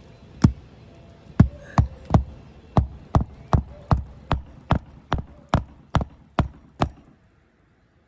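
Hammer driving a roofing nail into an asphalt shingle: a steady run of about fifteen sharp strikes, roughly two and a half a second, stopping about seven seconds in, then one more strike at the very end.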